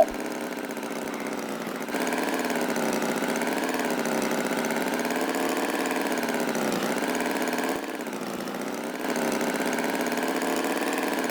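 A small engine running steadily, its pitch wavering gently. It is a little quieter for the first two seconds and dips again briefly about eight seconds in.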